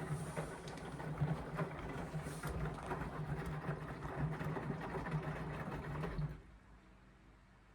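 Indesit washing machine turning its drum during the wash: a steady motor hum with the laundry and water churning. About six seconds in the motor stops suddenly and the drum pauses.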